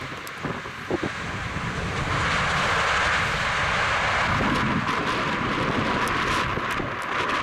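Airliner's engines, a steady rushing noise that grows louder about two seconds in and stays loud.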